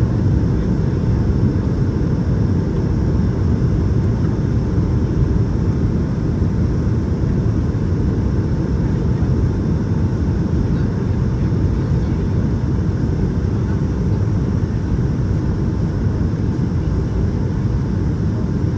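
Cabin noise inside a Boeing 757-200 in flight: a steady low rumble of airflow and its Pratt & Whitney PW2000 engines, with a faint steady whine on top.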